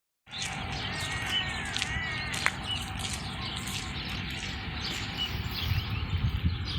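Small birds chirping and tweeting, with a short run of arching call notes about two seconds in, over steady outdoor background noise.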